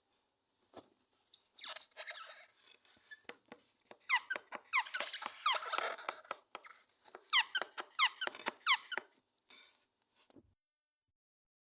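Green parrot chirping: scratchy chatter mixed with quick, sharply falling chirps, in two runs, about four seconds in and again near the end.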